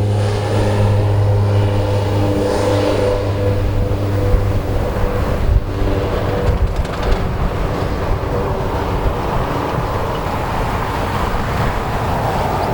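Turboprop aircraft engines and propellers, a steady low hum with a droning overtone that fades out about five seconds in, leaving a low rushing rumble.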